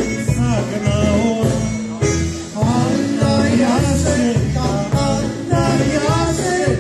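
Live band music with a lead vocal, bass notes moving in a steady rhythm underneath.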